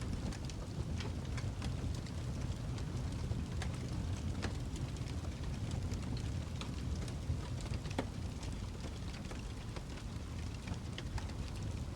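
Birchwood fire crackling in a fireplace: a steady low rumble of burning logs with frequent irregular sharp pops and snaps.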